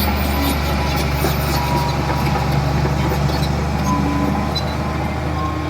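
Diesel engine of heavy earthmoving machinery running steadily under a low hum, with faint light clanks.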